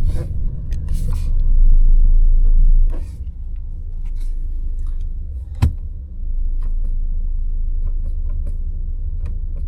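Volkswagen Jetta 1.4 TSI driving on a test drive, a steady low rumble that is loudest for the first three seconds and then drops suddenly. A single sharp click comes a little past halfway.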